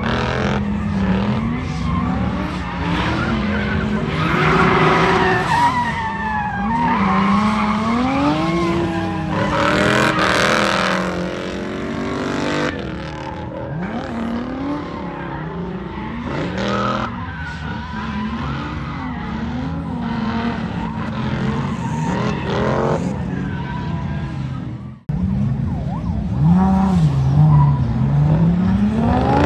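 Drift cars sliding on track, with engine revs rising and falling and tyres squealing. The sound cuts out briefly about 25 seconds in, then carries on.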